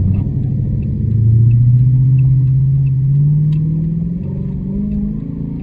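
Car engine pulling hard under full-throttle acceleration, its pitch climbing steadily for about four seconds.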